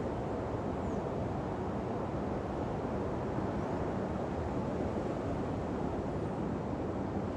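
Steady low rush of ocean surf on a beach, mixed with wind on the microphone, holding an even level throughout.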